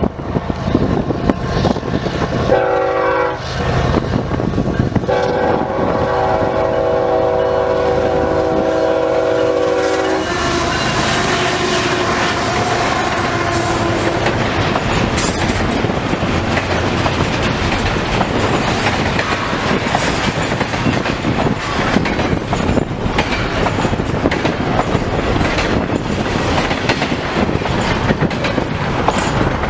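Diesel freight locomotive's multi-chime air horn sounding a short blast, then a long blast of about five seconds, followed by the train rolling by with its wheels clacking over the rail joints, under strong wind noise.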